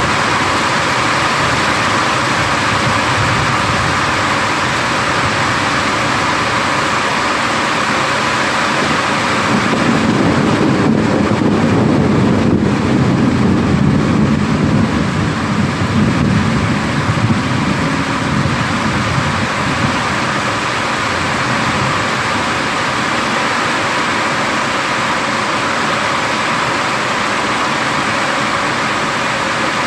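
Steady rain hiss with rolling thunder: a low rumble builds about ten seconds in and rolls on for about ten seconds before dying back into the rain.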